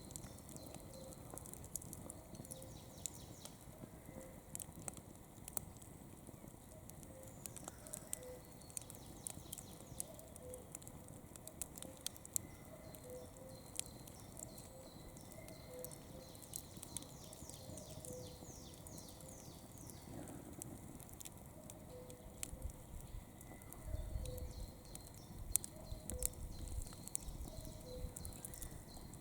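Wood campfire crackling with frequent small sharp pops. A faint short low note repeats about once a second behind it, and there are some low rumbles near the end.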